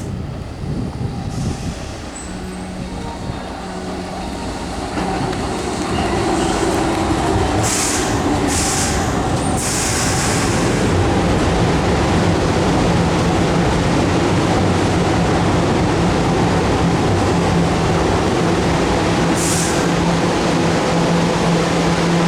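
Keihan 2600 series train running at the station platform: the rumble of motors and wheels on rail builds over the first several seconds, then holds steady. Several short hisses of air come about eight to ten seconds in and once more near the end.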